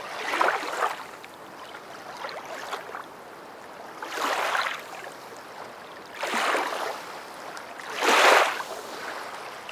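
Water washing in swells over a steady hiss, surging up and falling back four times.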